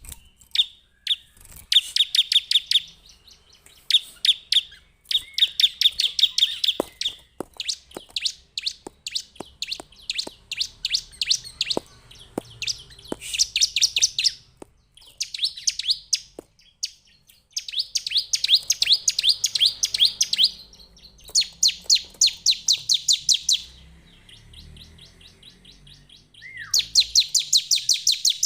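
Bar-winged prinia singing: bursts of rapid, evenly repeated high chirps, each run lasting one to three seconds, with short pauses between runs.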